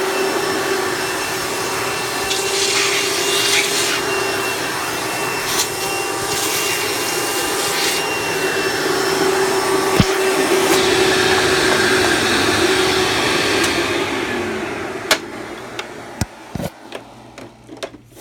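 Hoover Breathe Easy upright vacuum's 7.3 amp direct-air motor running in tool mode, drawing air through its on-board hose, with a steady hum and rushing air and a sharp knock about ten seconds in. Near the end the motor winds down and stops, followed by a few light clicks and taps.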